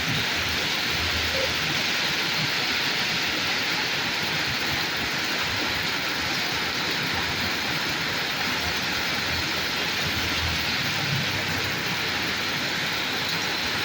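Steady rain falling as an even hiss, with a low rumble swelling briefly a couple of times.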